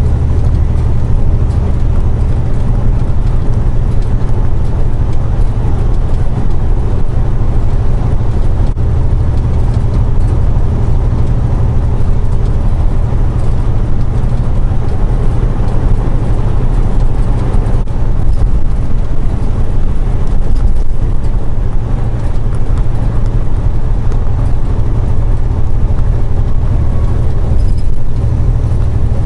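Steady engine and road drone heard inside the cab of a semi truck while it drives, a deep unbroken rumble with no change in pace.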